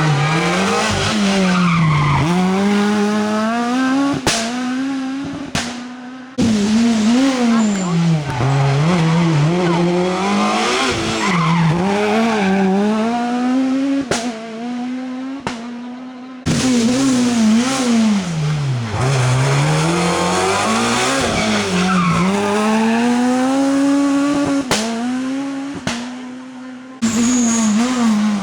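Rally cars taking a tight hairpin one after another: each engine revs up and down hard through the gears, braking and then accelerating away, with tyres squealing as the cars slide. Three separate passes, each cut off abruptly.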